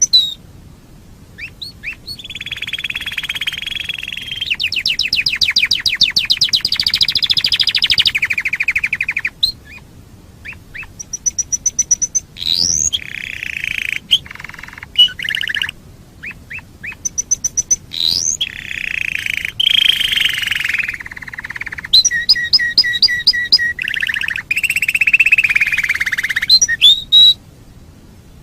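Domestic canary singing: phrases of several seconds made of rapid rolling trills and fast repeated notes, broken by short pauses and a few quick rising whistles.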